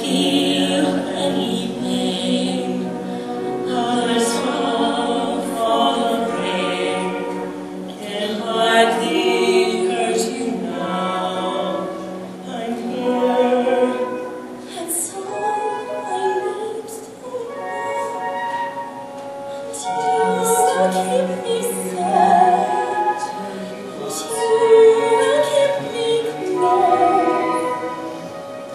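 A woman and a man singing a musical-theatre duet in a full, operatic style with vibrato, over held instrumental accompaniment.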